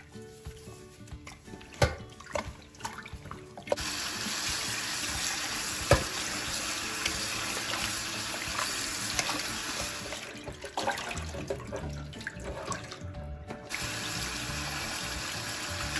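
Kitchen tap running into a stainless steel bowl of raw chicken breasts as they are rinsed by hand. For the first few seconds there are only small wet handling clicks, then the tap comes on with a steady rush of water about four seconds in. The water cuts out briefly near the end and then starts again.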